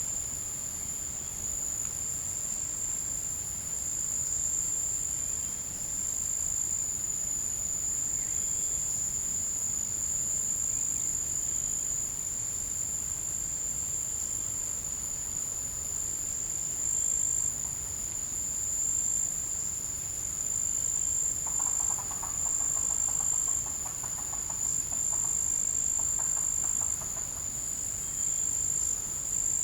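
A forest insect chorus keeps up one steady, high-pitched drone. About two thirds of the way in, an unidentified animal gives a short rapid pulsed call twice, a longer one and then a shorter one.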